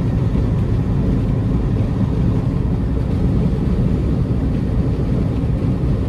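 Peterbilt semi-truck driving, its diesel engine and road noise a steady low rumble.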